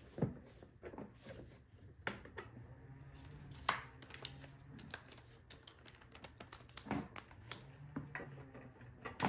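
Irregular light clicks and taps of small metal parts and hand tools being handled, as screws are set aside and the mower engine's top parts are worked on.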